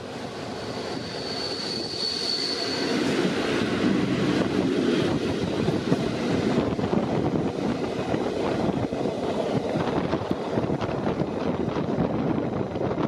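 Passenger train running on the rails: a steady rumble and rattle with many short clacks, growing louder over the first few seconds. A thin high wheel squeal is heard about a second in and lasts about two seconds.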